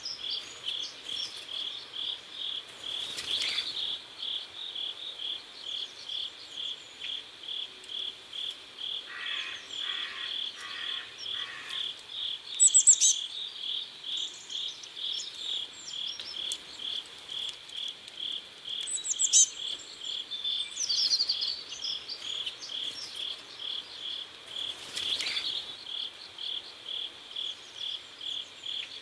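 Crickets chirping in a steady, even rhythm of about two chirps a second. A few brief, higher bird chirps rise over them about a third and two thirds of the way through.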